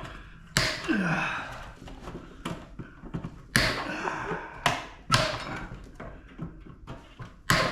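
Scrap metal parts knocking and clanking as they are worked apart by hand: about six sharp, irregular knocks, each ringing briefly.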